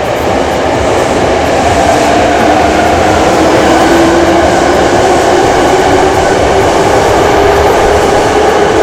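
Hankyu Kyoto Line electric train running, loud rail and wheel noise with a motor whine that slides slowly lower in pitch. It grows louder over the first second.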